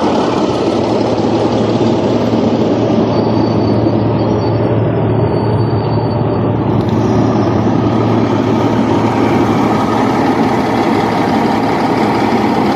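Caterpillar D8T bulldozer's C15 diesel engine running steadily at a constant speed, with a low, even hum.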